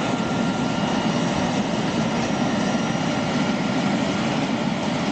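Bubble-type vegetable washing machine running while washing kelp: a steady mix of churning water and machine hum, with a faint high whine.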